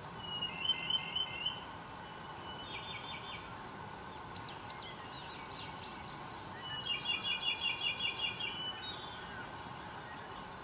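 Wild songbirds singing: quick trills of rapidly repeated high notes, one burst near the start, a short one around three seconds in, and a longer, louder one from about six and a half to nine seconds, over a steady background hiss.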